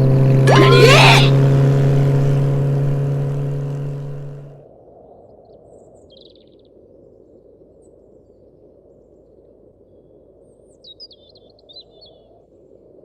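Motorcycle engine sound effect holding a steady hum, with a brief whoosh about half a second in, then fading out over about four seconds. After that a faint low ambience with a few short bird chirps, most of them near the end.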